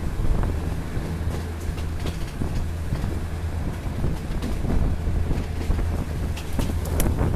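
Diesel passenger train running along the track, heard from an open carriage window: a steady low engine drone under wind buffeting the microphone, with scattered clicks and rattles from the running gear.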